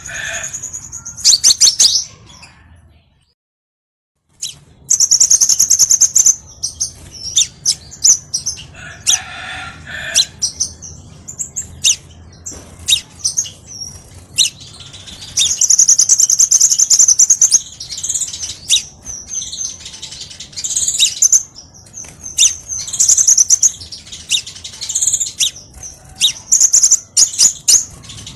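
Crimson sunbird (kolibri sepah raja) song: rapid high-pitched chirps and trills in quick runs. The song breaks off into a short silence about three seconds in, then resumes.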